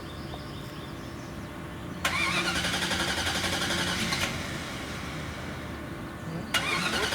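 Car engine idling with a steady low hum. About two seconds in, a louder burst of noise that reaches high up joins for about two seconds, and it comes back near the end.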